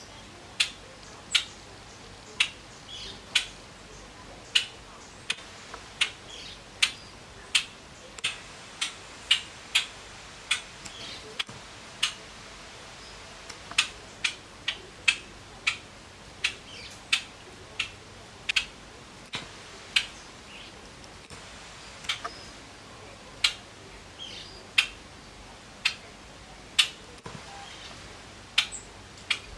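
A bird eating: its beak makes sharp, irregular clicks, about one to two a second, as it pecks and cracks its food.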